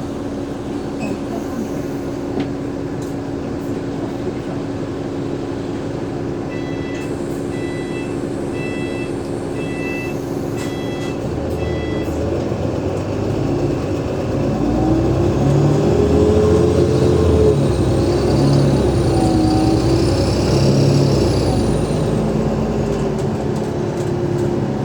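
Cummins ISL diesel engine of an Alexander Dennis Enviro500 MMC bus idling steadily, with a run of electronic beeps about seven seconds in, then pulling harder from about twelve seconds as the bus moves off through its ZF Ecolife automatic gearbox. Midway through the pull-away a high-pitched whine rises and falls for several seconds, the bus's 'weird sound'.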